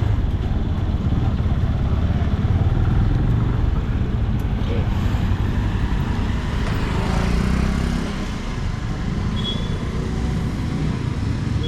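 Benelli 150i motorcycle engine running while riding, with road and traffic noise around it. The sound is steady, easing slightly about eight seconds in.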